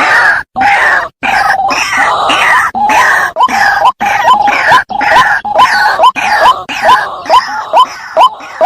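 White-breasted waterhen calling: loud, harsh, repeated croaking with a short upward-swooping note, two to three a second. The grating background thins out near the end.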